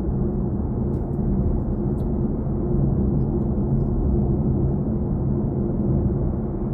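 Steady road and tyre noise inside the cabin of a BMW i4 M50 electric car as it drives along, with a low even hum underneath.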